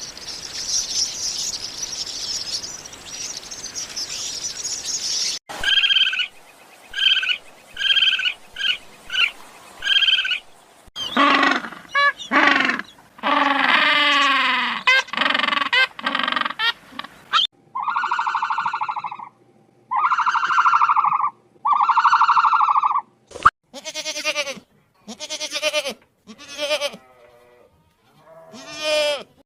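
A string of different animal calls. Bleating is among them: a hissy stretch, then about six short calls, a busy run of gliding calls, three long bleats of about a second each, and several shorter calls near the end.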